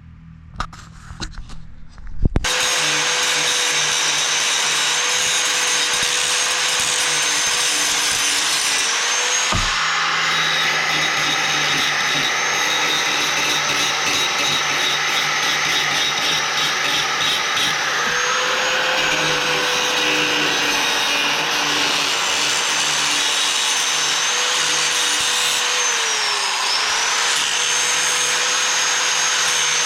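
An electric angle grinder starts about two seconds in and runs steadily while grinding steel bar stock to fit, its motor whine sagging several times as it is pressed into the metal.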